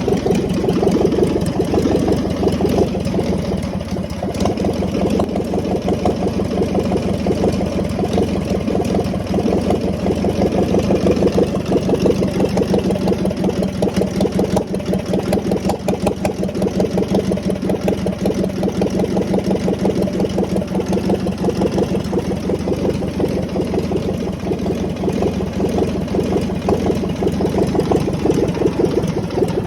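ZAZ-968 Zaporozhets' air-cooled 1.2-litre V4 engine idling steadily, with an even, rapid beat of firing pulses.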